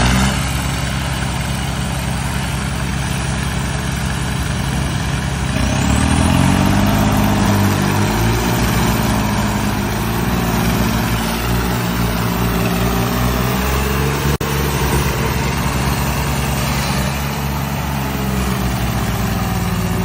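John Deere tractor's diesel engine running, its revs climbing about six seconds in and then holding steady.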